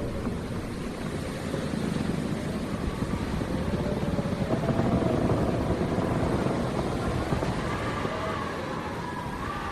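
Wind howling, a constant low rumble with thin whistling tones that slowly rise and fall in pitch.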